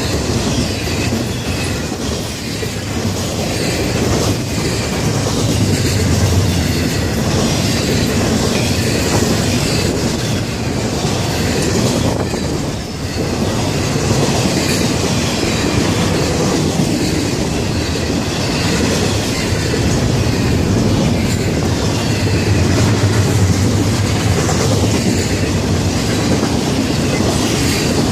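A Florida East Coast Railway freight train's cars rolling past close by, a loud, steady noise of steel wheels running on the rails.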